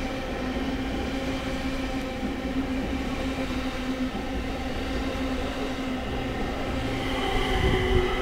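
Electric passenger train moving along a station platform: a steady rumble of wheels on rail with a low hum, joined near the end by higher whining tones.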